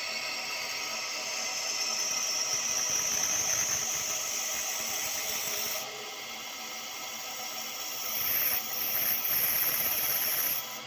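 1700F3U CNC lathe running, its tool cutting a turned workpiece: a steady hiss with several held whining tones. It drops about halfway through, rises again with a high thin whine for the last few seconds, and cuts off sharply at the end.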